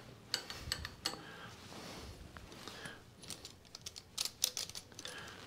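Scattered light clicks and taps of tools and small metal parts being handled, a few at first, then a quick cluster of them late on.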